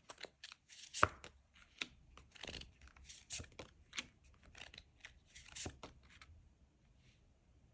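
Tarot cards being shuffled and handled: a run of irregular papery snaps and taps that stops about six seconds in.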